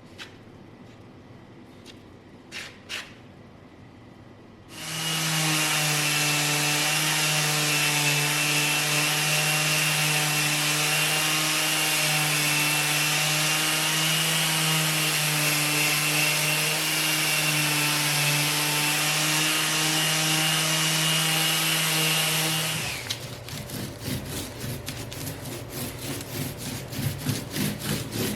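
An electric power tool runs steadily on wood with a low hum and a thin high whine, starting about five seconds in and stopping a few seconds before the end. It gives way to quick, rhythmic rasping strokes of hand rubbing on wood.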